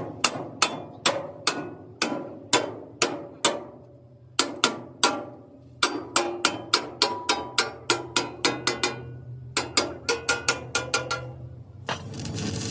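Hammer blows on steel, in quick uneven runs of about two to four a second, each strike with a short metallic ring, over a low steady hum. The hammering stops about a second before the end, and a steady rushing noise takes over.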